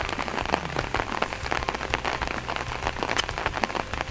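Heavy rain: a dense patter of raindrops close to the microphone. One sharper click about three seconds in is the golf club striking the ball.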